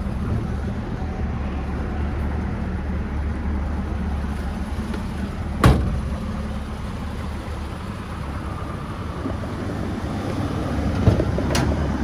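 Ford 260 cubic inch small-block V8 idling steadily, with a sharp click about halfway through and a lighter one near the end.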